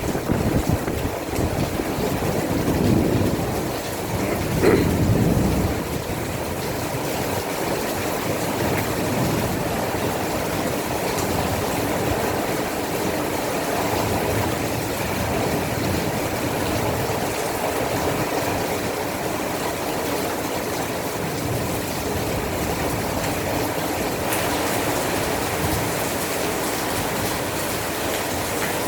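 Heavy rain falling steadily during a thunderstorm downpour, with a few louder low swells in the first several seconds.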